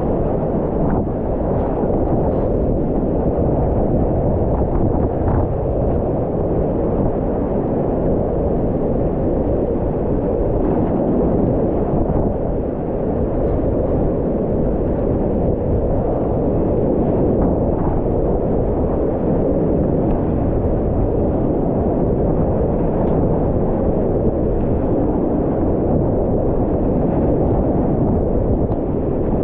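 Whitewater rapids rushing: a loud, steady, low-heavy rush of churning water with no let-up.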